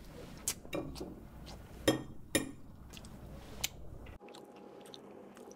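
A man chewing food loudly with his mouth open, with several sharp, wet crunches among the chewing. About four seconds in the chewing drops away to a faint steady hum.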